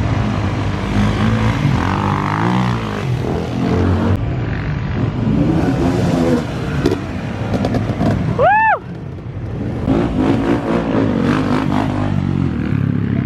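Dirt bike engines revving up and down, loud and continuous. About two thirds through there is a brief high tone that rises and then falls.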